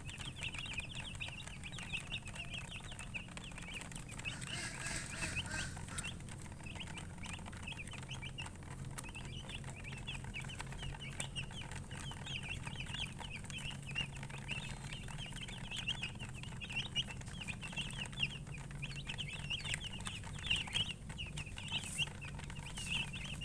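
Chicks peeping continuously: many short, high chirps overlapping, over a steady low background hum.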